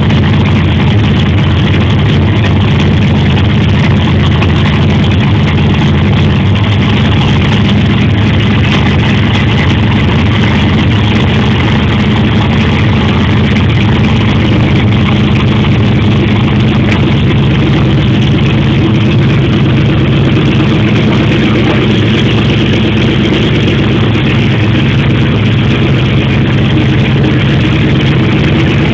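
Twin-turbocharged 440ci LSX stroker V8 in a Holden VE Commodore SS idling steadily, a loud, deep, even running note with no revs.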